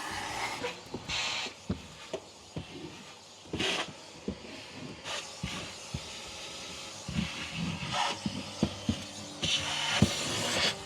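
A spray bottle of cleaner spritzing in several short hissing bursts about half a second long, with clicks and knocks of handling in between.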